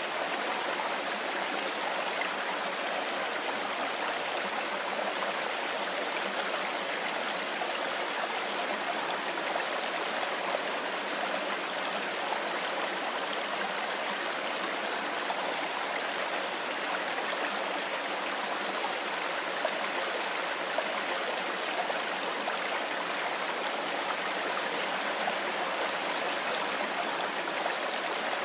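Mountain river flowing and rushing over stones, a steady, even water noise.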